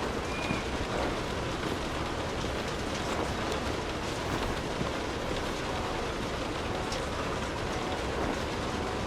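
Steady rainfall, an even hiss with many scattered ticks of drops striking a surface.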